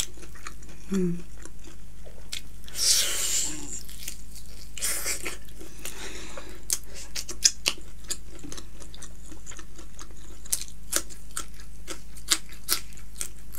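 Close-miked eating: a person biting and chewing meat off a curried chicken drumstick, with many short wet mouth clicks and smacks. Two longer noisy stretches come about three and five seconds in.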